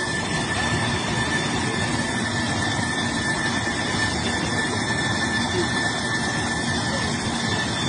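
Aircraft jet engine running steadily, a loud rushing noise with a thin, steady high whine over it.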